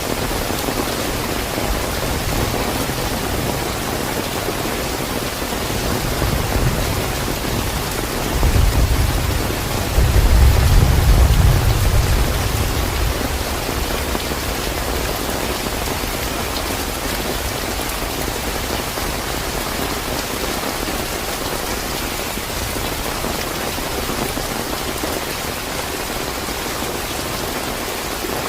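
Heavy rain falling steadily. About eight seconds in, a low rumble of thunder swells, peaks, and dies away a few seconds later.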